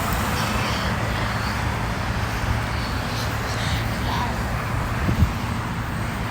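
Steady rumble of road traffic with some wind on the microphone, and a short low knock about five seconds in.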